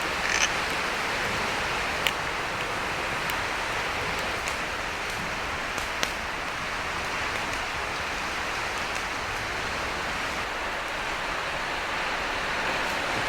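Steady rushing sea surf with a few sharp pops and crackles from a wood campfire, loudest about two and six seconds in.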